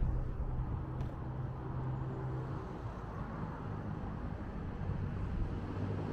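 Street traffic: a motor vehicle's engine hums past, fading out about halfway through, with another rising near the end over a steady low rumble.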